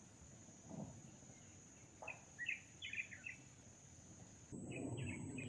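Faint outdoor ambience by a pond: a small bird chirps a quick run of notes about two seconds in and again near the end, over a steady high-pitched insect trill. About four and a half seconds in, the background noise changes abruptly and grows louder.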